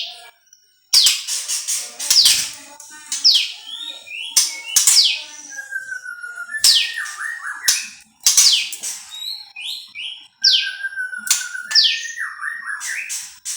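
Prenjak lumut songbird singing: loud, repeated phrases of sharp notes that sweep steeply downward, with steadier, wavering whistles between the phrases.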